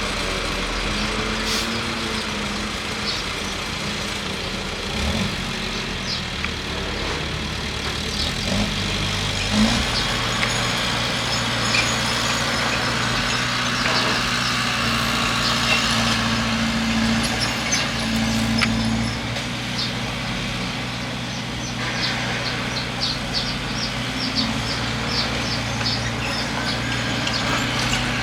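Bulldozer's diesel engine running steadily under load, its note shifting about nine to ten seconds in. Small sharp clicks run over it, thickest near the end.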